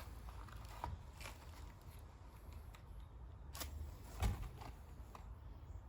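Faint clicks and scrapes of matches being struck, with one sharper, louder snap about four seconds in.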